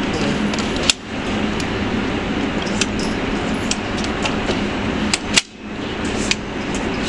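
Gunshots from a firearm at a shooting range: a few sharp, separate shots, the loudest about a second in and about five and a half seconds in, each followed by a brief dip in the recording's level. A steady background rush runs underneath.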